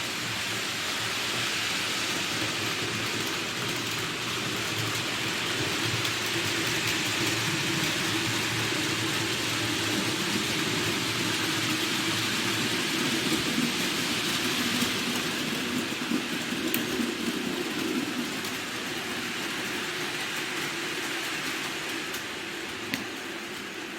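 A train running along the track: a steady rushing rumble with a few faint clicks, easing slightly near the end.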